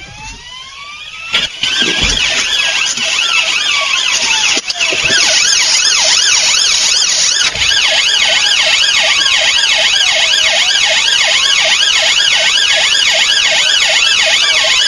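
Police sirens: a slow rising-and-falling wail, joined about a second and a half in by a much louder fast yelp that keeps going, with the slower wail still heard beneath it.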